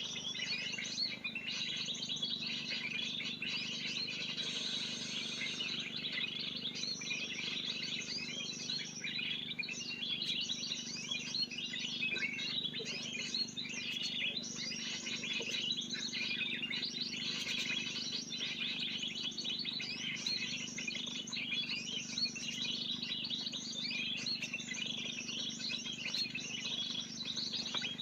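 Bird-lure recording of a noisy flock of small birds: dense, continuous high-pitched chirping and chattering from many overlapping calls, with a faint steady low hum beneath.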